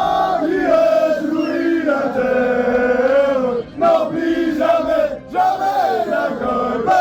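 A crowd of voices singing and chanting loudly together in unison, holding long notes that waver in pitch, with brief breaks about halfway through.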